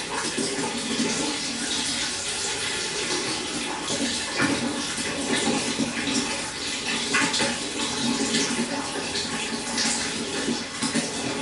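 Running water splashing and trickling steadily, with many small irregular splashes throughout.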